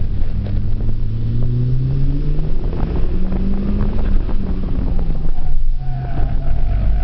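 Mitsubishi Lancer Evolution IV's turbocharged four-cylinder engine pulling hard. The revs climb over the first two and a half seconds, hold, then dip briefly about five and a half seconds in, as at a gear change or lift, before it pulls on again.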